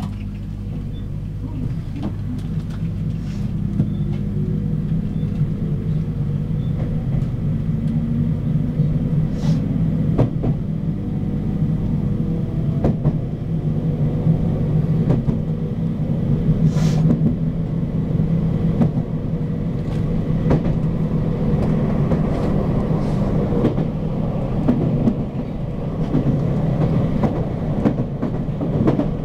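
Electric commuter train heard on board as it gets under way: the motor tones rise steadily in pitch for about the first dozen seconds as it accelerates, over a constant rumble of the wheels on the rails. A few sharp clicks come through along the way.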